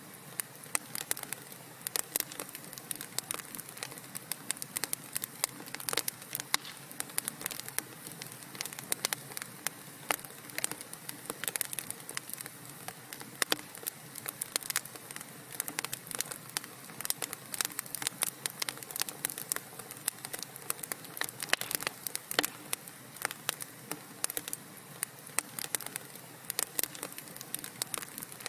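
Wood fire burning in a fireplace, with a steady soft hiss and frequent irregular sharp crackles and pops.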